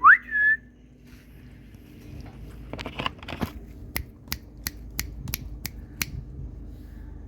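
Indian ringneck parrot gives one short whistle that rises in pitch and levels off. A few seconds later come a brief crunch and then a run of seven sharp, even clicks, about three a second.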